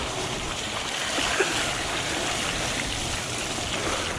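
Fat bike tyres rolling and splashing through mud on a trail, a steady rushing noise.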